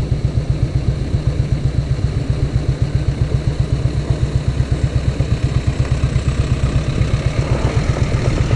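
Royal Enfield single-cylinder motorcycle engine idling with an even, loud thump, about seven or eight beats a second.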